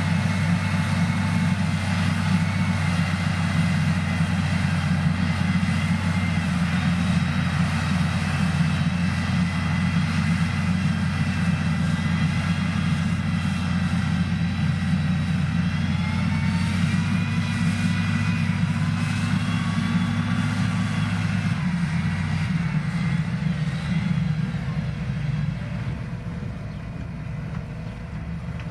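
Heavy motor grader's diesel engine running steadily, a low drone, with faint whines that rise and fall partway through. The engine eases off near the end.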